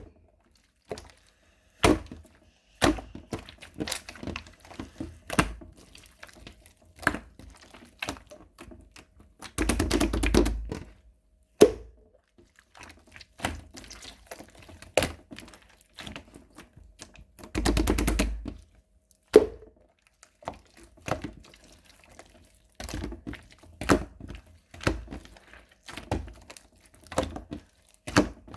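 Runny slime being pressed, poked and squished by hand, making sharp wet clicks and pops. Twice it runs into a quick crackling flurry lasting about a second and a half.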